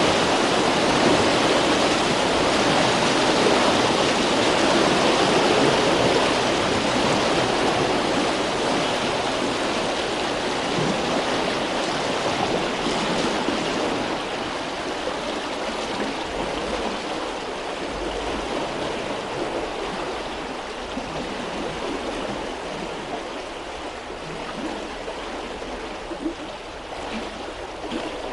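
River water flowing as a steady rush, growing gradually quieter.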